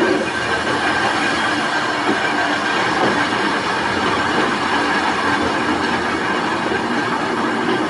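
Volk's Electric Railway narrow-gauge electric car running along the track: a steady noise of wheels on rail, with a faint, steady high whine.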